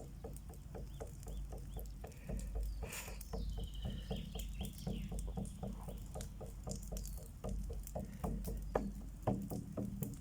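A rooster crows once, about three seconds in, over a steady rhythmic beat of about four strokes a second.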